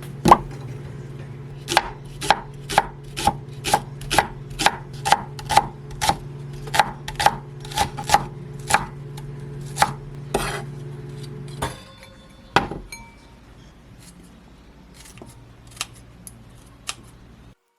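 Kitchen knife chopping on a wooden cutting board, about two even strokes a second, stopping after some nine seconds; a few scattered knocks follow.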